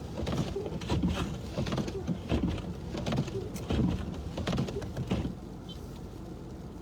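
Car cabin noise while driving on a snow-covered street. Irregular knocks and scrapes come about twice a second, then stop a little after five seconds, leaving a steady low hum.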